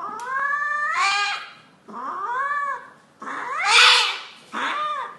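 Domestic cat yowling: four drawn-out, wavering yowls in a row, the third the loudest and the last a short one.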